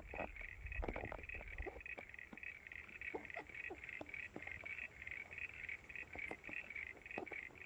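A steady, rhythmic chorus of small calling animals pulsing about five times a second, with scattered faint clicks over it and a low rumble during the first two seconds.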